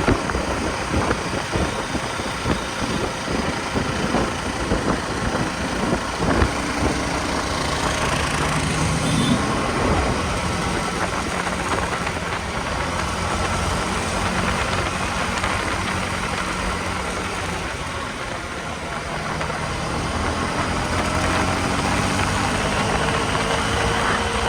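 KTM Duke 250's single-cylinder engine running, with a rapid knocking beat for the first several seconds. About eight seconds in the pitch rises, then the engine holds a steadier note.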